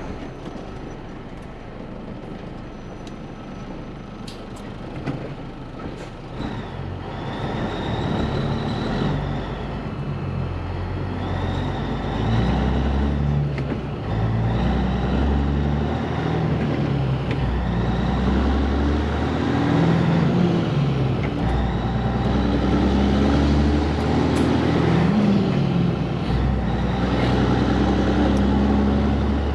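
Heavy diesel truck engine pulling away and accelerating through the gears, its pitch climbing and dropping back with each shift, getting louder from about six seconds in.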